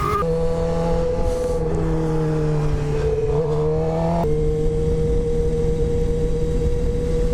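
2015 Suzuki GSX-R 750's inline-four engine, with an Akrapovic slip-on exhaust, running under way with wind and road rumble. Its pitch sags a little, then holds steady after an abrupt shift about four seconds in.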